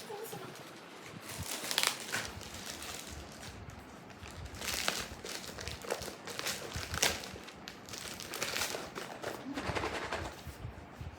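Plastic packaging crinkling and rustling in irregular bursts as a package is handled and opened.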